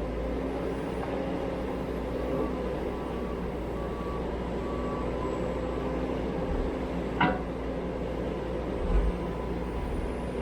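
Steady hum of a vehicle engine running, with faint short beeps repeating evenly for a couple of seconds and a single sharp click about seven seconds in.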